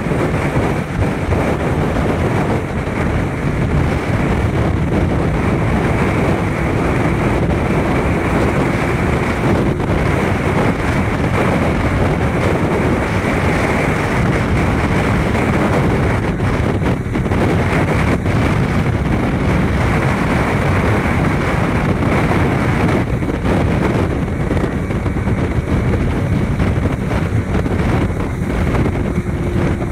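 Small motorboat with an Evinrude 40 H.O. outboard running steadily underway: the motor and the hull on the water are heard under heavy wind buffeting the microphone.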